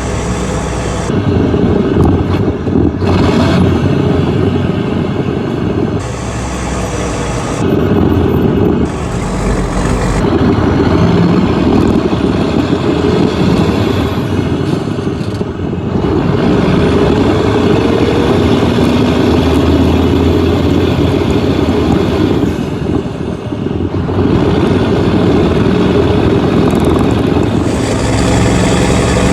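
Diesel engine of a 1983 Mack R-model truck running through a short 5-inch straight stack while being driven. It pulls steadily, with several brief dips in level where the engine note drops off and picks up again.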